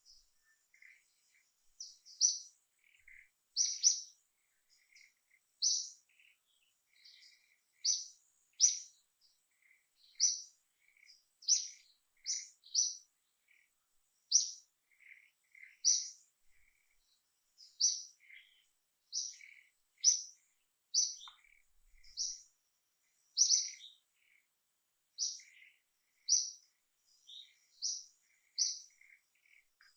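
A small bird chirping over and over: short, high chirps every second or two, with fainter, lower chirps in between.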